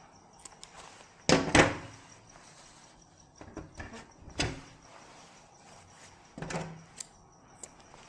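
A series of sharp knocks and clunks of hard objects: two loud ones close together about a second and a half in, another about four and a half seconds in and one more about six and a half seconds in, with lighter clicks between.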